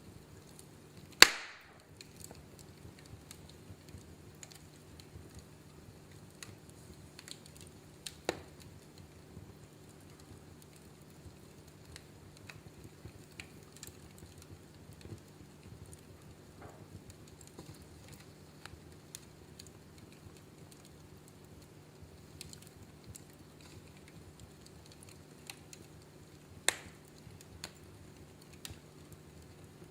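Wood fire crackling in a fireplace: many small ticks over a faint steady hiss, with a few sharp pops, the loudest about a second in, another about eight seconds in and one near the end.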